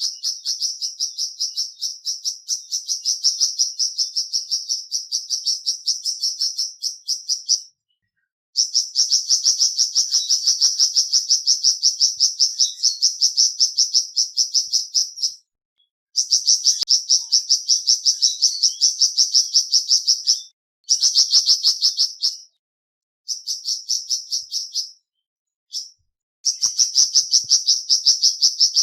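A small songbird's rapid, high-pitched chirping trill: several even chirps a second, repeated in long runs of a few seconds each with short silent breaks. It is played as a 'masteran' call track meant to get a caged flamboyan bird to sing.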